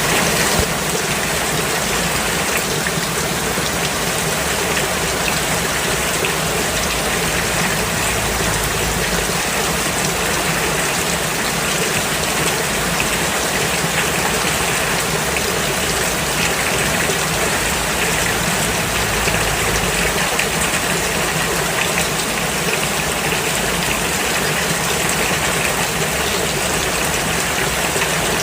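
Steady, heavy rain falling on a road surface, an even hiss of drops.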